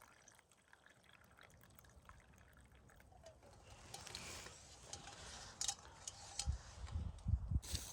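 Steeped blueberry tea being poured into a cup: a faint liquid trickle. A few soft low thumps follow near the end.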